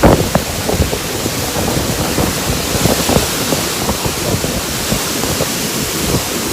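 Heavy thunderstorm rain with strong wind buffeting the microphone in irregular low rumbles, the strongest gust right at the start.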